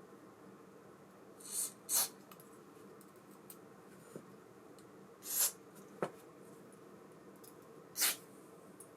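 Four short hissing puffs, with a couple of faint small clicks between them, from bench work cleaning an ABU Ambassadeur 5500C baitcasting reel.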